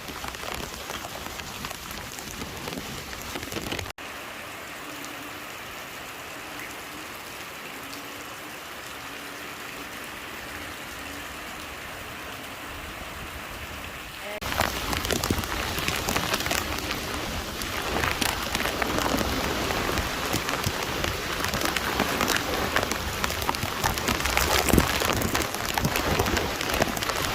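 Heavy typhoon rain pouring down and splashing on surfaces. It drops suddenly to a quieter patter about four seconds in, then turns much louder and denser about halfway through.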